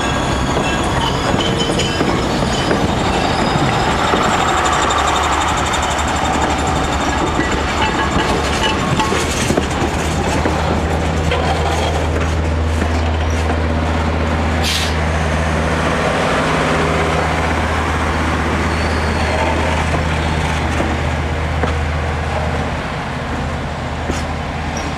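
Passenger coaches rolling past close by on a curve: a steady rumble of steel wheels on the rails, with a short high hiss about fifteen seconds in. The sound eases a little near the end as the last coach goes by.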